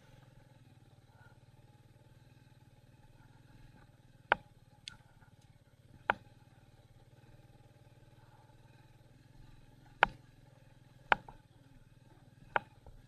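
Royal Enfield Meteor 350's single-cylinder engine running steadily at low revs, heard faintly. About seven sharp knocks at irregular intervals stand out above it as the bike jolts over a rough, broken road.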